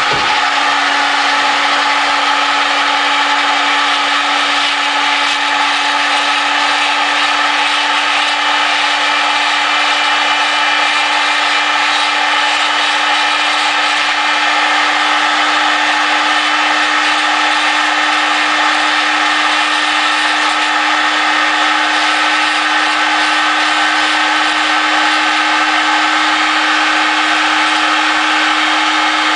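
RotoZip rotary tool on a flexible-shaft snake extension running continuously, a green-tip grinding stone working the ports of a Predator 212 cylinder head. A steady whine over a grinding hiss.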